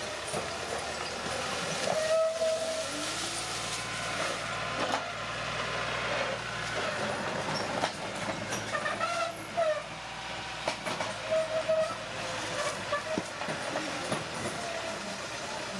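Old crawler bulldozer working: steady machine noise with the steel tracks clanking, and several short metallic squeals. A lower engine drone swells for a few seconds early on.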